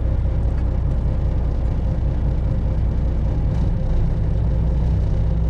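Semi truck's diesel engine droning steadily, heard from inside the Freightliner Classic XL's cab as it drives at low city speed.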